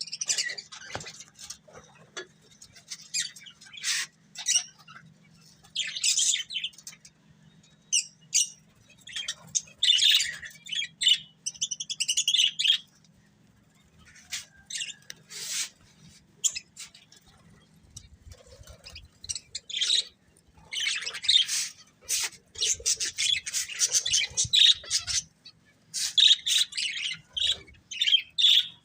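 Pair of budgerigars chirping and chattering in irregular bursts with short pauses, the chatter coming thicker and faster in the second half. A faint steady low hum runs underneath.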